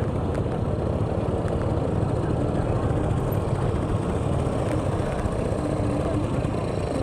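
A vehicle's engine running steadily while under way, with a dense, even low rumble of engine and road noise.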